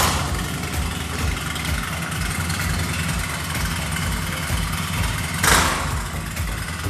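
Harley-Davidson Road King's 103 V-twin engine, just started, idling through a TBR 2-into-1 Competition Series shorty exhaust. There is a brief louder burst about five and a half seconds in.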